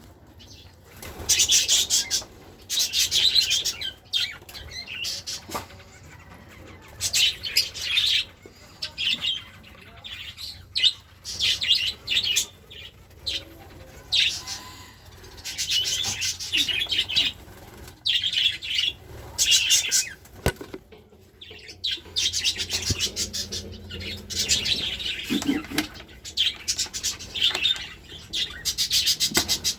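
Small cage birds, finches and parakeets, chirping and chattering in repeated high-pitched bursts of a second or two, with short pauses between.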